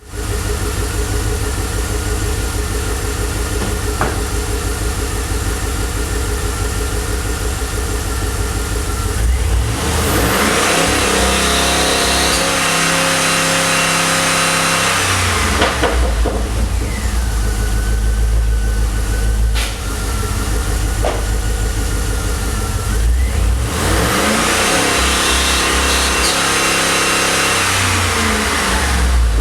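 2009 Pontiac G8 GT's 6.0-litre V8 with a Solo Mach shorty cat-back exhaust, idling, then revved and held high twice, dropping back to idle with blips in between. During the second rev there is an intermittent squeak or misfire noise that the owner is trying to trace.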